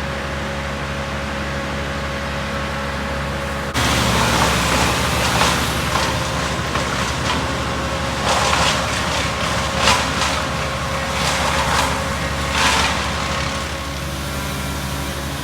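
A motor vehicle engine running steadily. About four seconds in, the sound steps up abruptly into louder engine and traffic noise, with several short rushing bursts.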